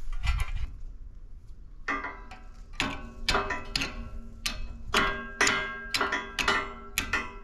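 Hammer blows on a bent metal cover plate, each strike ringing, irregularly about two a second, starting about two seconds in.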